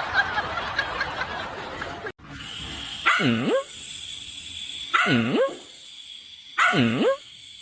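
A pet's repeated drawn-out calls, three of them, each about half a second long and dipping in pitch before rising again, about one every two seconds. For the first two seconds a voice and music are heard, then they cut off.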